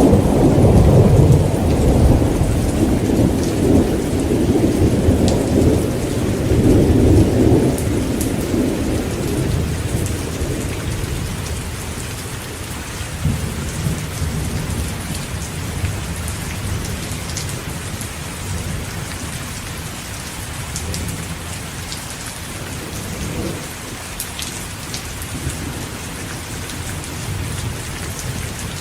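Heavy rain falling steadily, with a long roll of thunder rumbling loudly at the start and fading out after about eight seconds. Fainter thunder grumbles come back later.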